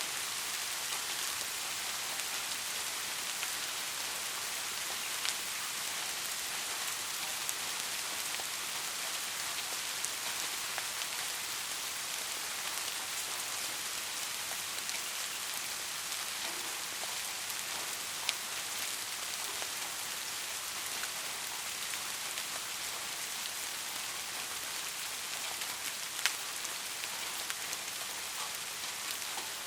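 Steady rain falling, an even hiss of drops on a surface with a few sharper single drop hits standing out now and then.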